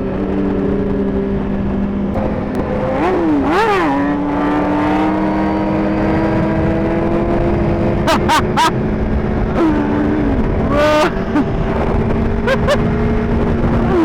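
Suzuki GSX-R1000 inline-four sport-bike engine under way, its note climbing slowly as it pulls, broken by several quick, sharp revs.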